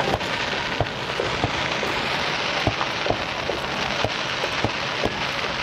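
Fireworks crackling: a dense fizzing crackle like rain, growing fuller about a second and a half in, with scattered sharp pops through it.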